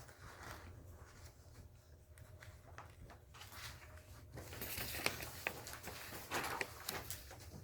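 Papers rustling and being handled, with small clicks, starting about halfway through over a steady low electrical hum.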